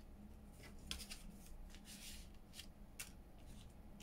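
Faint, irregular rustling and light ticks of paper and card being handled and moved about on a craft table.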